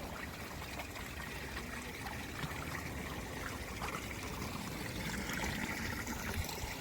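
Mineral spring water trickling and running steadily over travertine terraces.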